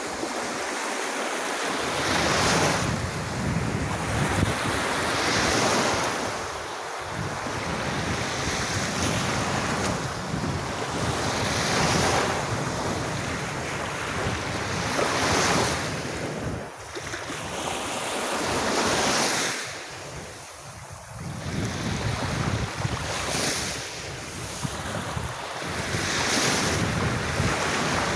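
Sea waves washing onto a beach, the surf swelling and falling back every few seconds, with wind on the microphone.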